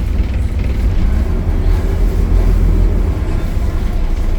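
Optare Solo bus's diesel engine running, a steady deep rumble.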